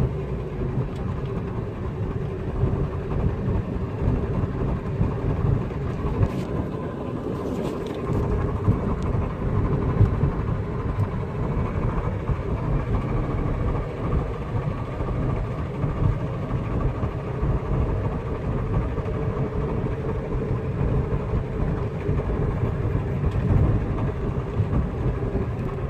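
Front-end noise of a 2002 Subaru WRX rolling with the clutch pushed in: a steady hum over road noise, centred on the front right wheel. The noise is absent when idling or revving at a standstill, so it comes with road speed; the owner suspects the front axle, or possibly the differential or transmission.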